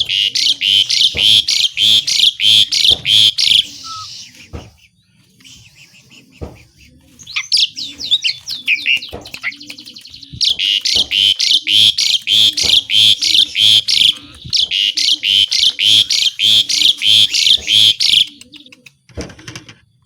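Pied starling (jalak suren) singing long runs of rapid, harsh repeated notes at about four a second, broken by a stretch of varied whistled and warbled phrases around the middle.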